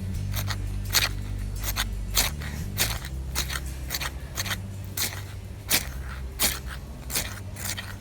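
Magnesium fire-starter rod scraped again and again with a steel striker, about a dozen quick rasping strokes at roughly three every two seconds.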